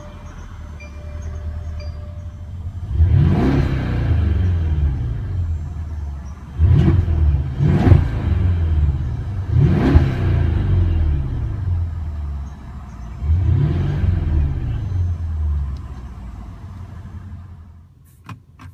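The 2016 Mercedes-Benz S550 Coupe's twin-turbo V8 and exhaust revved in Park, about five quick blips, each rising to around 4,000 rpm and falling back to idle, with the idle settling near the end. A couple of sharp clicks follow just before the end.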